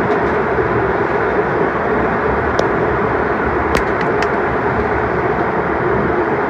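Airliner cabin noise: the steady rush of the jet engines and airflow heard from inside the passenger cabin, with a few faint ticks.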